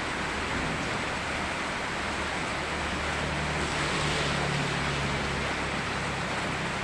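Steady rain mixed with rushing river water: an even hiss with no separate drops or breaks.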